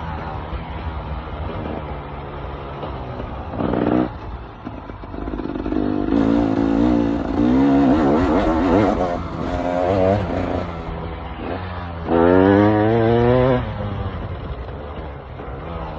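KTM EXC 300 two-stroke enduro motorcycle engine revving up and down under a rider's throttle: a short loud blip about four seconds in, uneven bursts of throttle through the middle, and the loudest rising rev near the end before it settles back.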